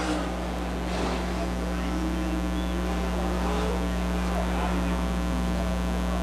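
Steady race-track background: mini sprint cars running slowly, with faint crowd voices over a constant electrical hum from the public-address system.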